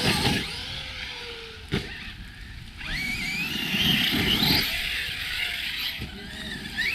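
Brushless electric motor of a large RC basher truck whining under throttle, with a sharp knock a little under two seconds in. About three seconds in the whine rises as the truck accelerates and wavers on until near the end, over the rumble of tyres on rough ground.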